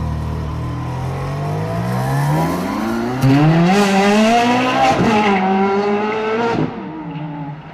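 A high-performance car engine accelerating hard: its pitch climbs steadily, gets louder about three seconds in and keeps rising, dips briefly near five seconds, then falls away and quietens near the end.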